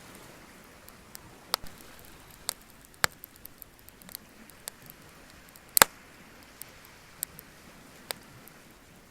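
Wood bonfire crackling: irregular sharp pops and snaps, the loudest about six seconds in, over a faint steady hiss.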